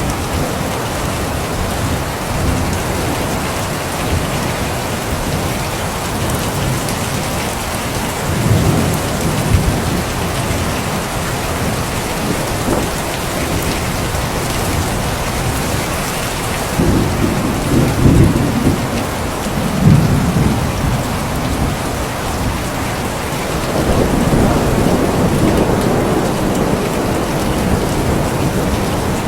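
Steady heavy rain falling, with low rolls of thunder: one about a third of the way in, the loudest two a little past halfway, and another longer one near the end.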